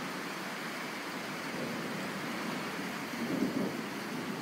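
Steady rain falling, with a brief, slightly louder low swell about three seconds in.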